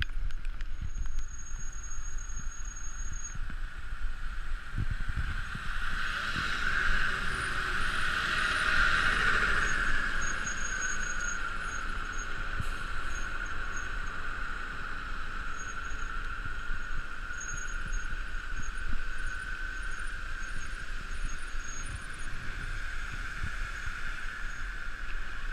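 Bicycle coasting downhill on pavement: a steady rushing whir from the wheels, swelling louder about six to ten seconds in, over low wind rumble on the microphone.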